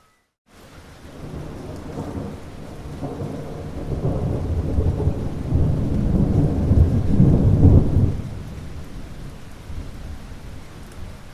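Rain falling steadily while a low thunder rumble rolls in after a brief gap of silence, builds for several seconds, and falls away sharply about eight seconds in, leaving the rain.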